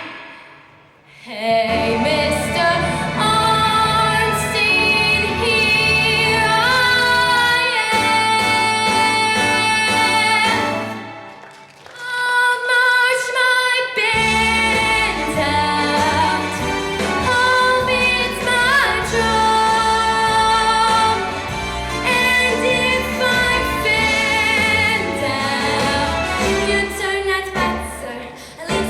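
A girl singing a Broadway show tune with musical accompaniment, holding long notes with vibrato. The music drops out briefly about a second in and again near the middle.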